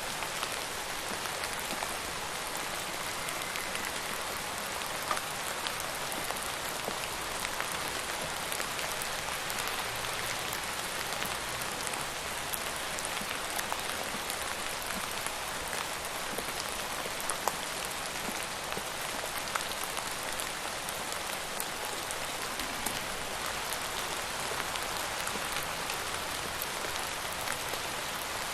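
Steady rain falling on a surface, an even hiss with scattered sharper drop impacts.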